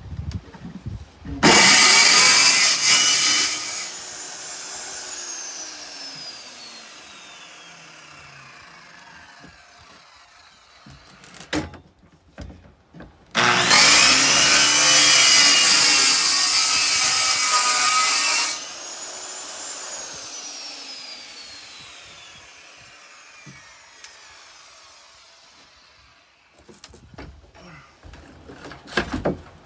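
A handheld power tool cuts twice, each cut lasting a few seconds; after each, the trigger is released and the motor winds down with a slowly falling whine. A few short knocks come between the cuts.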